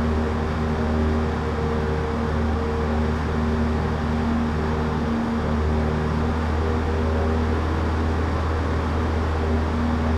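Cessna 152's four-cylinder Lycoming engine and propeller droning steadily in cruise flight, heard from inside the cockpit.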